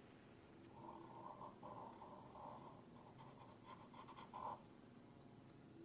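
Faint scratching of a pen drawing small strokes on paper, as the pupils are filled in. It runs in short bursts from about a second in and stops about four and a half seconds in.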